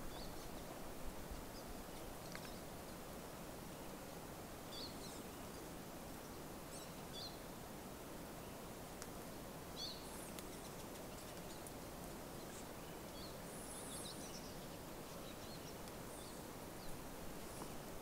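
Birds giving short, high chirps every second or two, scattered among several callers, over a steady outdoor background hiss.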